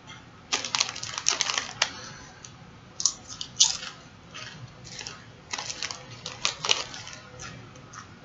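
Plastic snack packaging crinkling and crackling as it is handled, in three clusters of rapid crackles with a few stray clicks.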